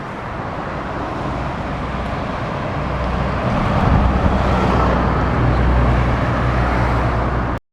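Local city bus pulling in, its engine and road noise growing louder over the first few seconds, then running steadily with a low engine hum until it cuts off suddenly near the end.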